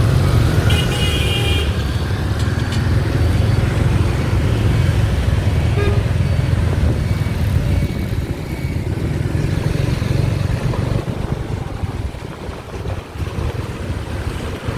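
Steady wind rush and road and engine noise heard from the back of a moving motorbike, with a short horn beep about a second in. The noise eases somewhat after about eight seconds.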